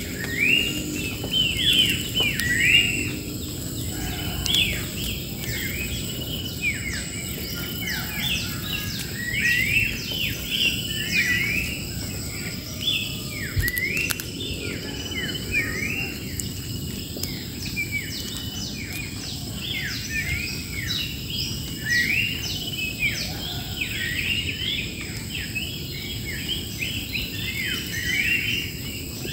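Wild birds chirping busily, many short arching calls overlapping without a break, over a steady high insect drone.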